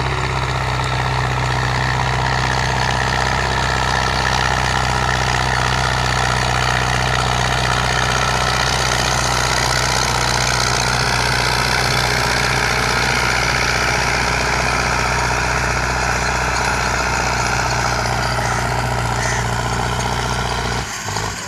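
An engine running steadily with a low, even drone; the sound drops briefly near the end.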